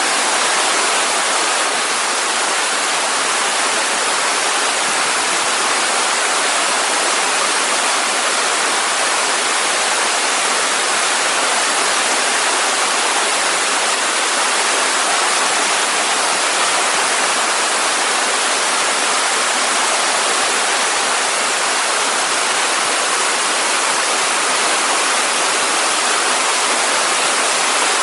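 Steady rush of a waterfall cascading down a mountain stream, unbroken and even throughout.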